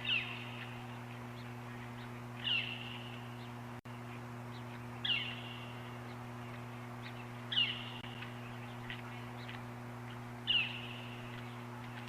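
An unidentified bird gives the same call five times, about every two and a half seconds. Each call is a short high note that drops in pitch and trails off into a brief held tone. A steady low hum runs underneath.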